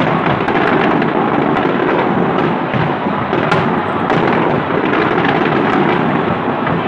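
Aerial fireworks display: a steady, loud rumble of many overlapping bursts, with frequent sharp cracks and bangs through it and one louder crack about three and a half seconds in.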